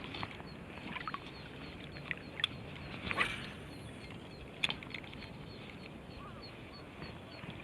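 Waterfowl or other birds calling by the river, one louder call a little past the middle. A few sharp clicks and a faint, even high ticking, about three a second, run under it.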